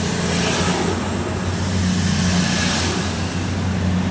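CrossCountry Voyager diesel multiple unit moving alongside the platform, its underfloor diesel engines giving a steady low drone under the rumble of the coaches.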